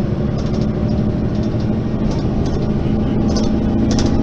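Mercedes-Benz Facelift city bus's diesel engine running steadily, with light rattles over its low drone.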